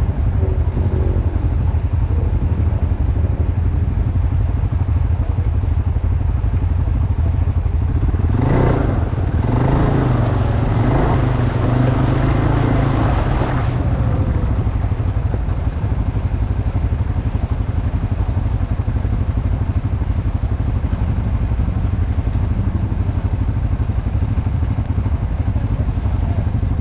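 ATV engine running steadily under way. A louder, rougher stretch comes in about eight seconds in and drops away again about six seconds later.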